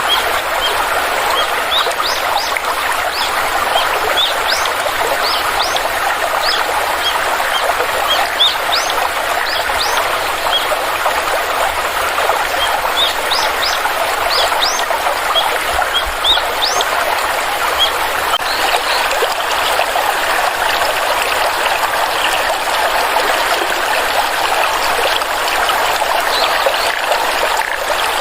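Small stream trickling and running steadily, with many short, high, rising bird chirps over it that thin out about two-thirds of the way through.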